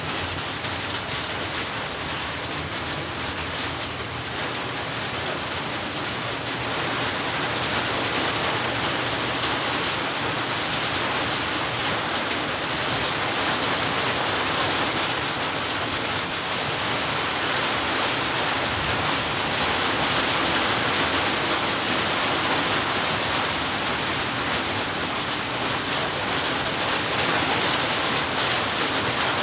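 Heavy rain falling steadily, an even hiss that grows slightly louder about seven seconds in.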